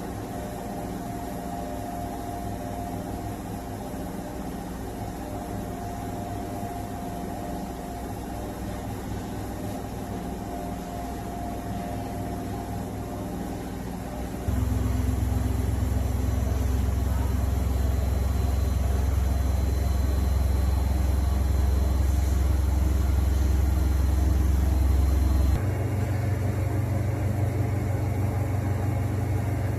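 Samsung 12 kg EcoBubble front-load washing machine running with a steady mechanical hum. About halfway through it suddenly becomes louder and deeper, and it shifts abruptly again near the end.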